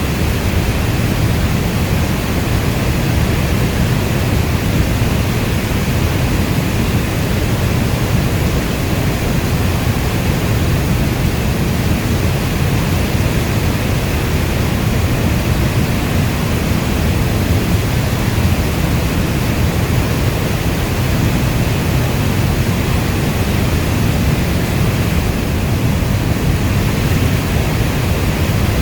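Steady heavy rainfall: a dense, even wash of rain with a deep low rumble and no single drops or thunder standing out.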